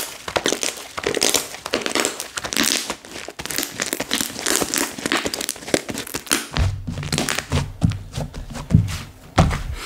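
Slime being squeezed and worked by hand, making a rapid run of crackling, squishing pops. From about two-thirds of the way in, dull low thuds join in.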